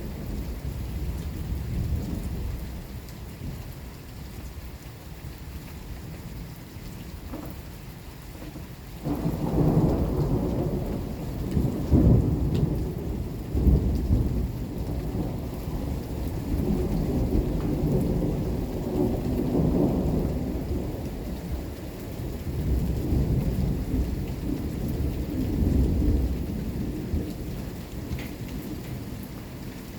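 Thunder over steady rain. A low rumble runs throughout; about nine seconds in a louder peal breaks and rolls on for most of the rest, swelling twice soon after before slowly dying away.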